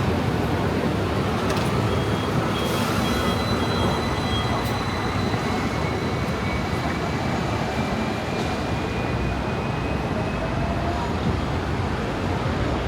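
Steady rumble of city traffic. A brief run of faint, high, evenly spaced beeps comes about two seconds in.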